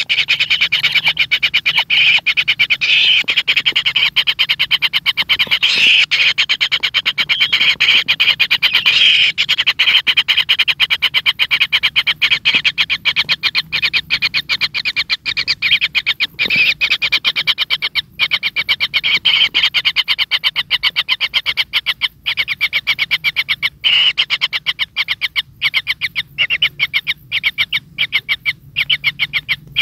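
Kingfisher chicks begging in the nest: a loud, rapid, unbroken train of rasping pulsed calls that breaks into short gaps near the end.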